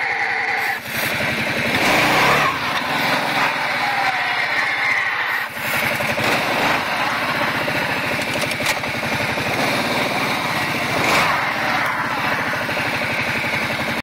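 Kawasaki Prairie 700 ATV engine running, the revs swelling and easing a few times, with a grinding noise in the clutch area that the owner hears only when slowing down.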